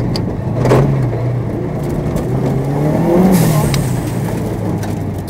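Turbocharged Subaru Impreza WRX STi EJ25 flat-four heard from inside the cabin, running hard on a gravel rally stage, with a loud crack about a second in. The engine picks up around three seconds in, then eases off and fades as the car slows.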